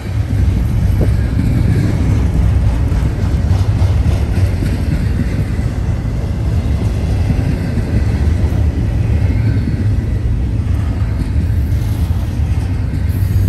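Norfolk Southern freight train rolling past close by: a loud, steady, deep rumble of wheels on rail.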